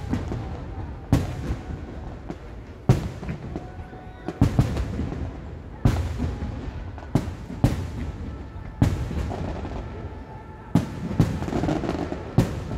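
Aerial fireworks display: shells bursting overhead in a string of sharp booms, roughly one every second or two, each trailed by a rumbling echo.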